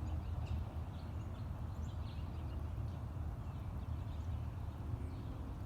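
Outdoor woodland ambience: a steady low rumble with faint, scattered bird chirps.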